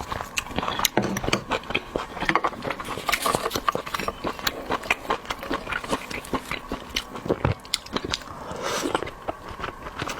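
Close-miked eating of seafood: chewing and biting, with many sharp clicks and crackles throughout.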